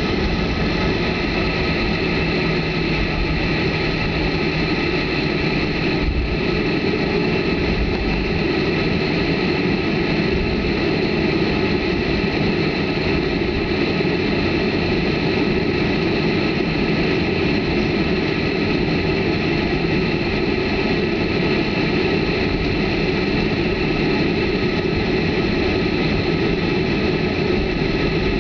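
Boeing 737's CFM56 jet engines heard from inside the passenger cabin: a steady whine of several even tones over a low rumble, holding constant without spooling up or down.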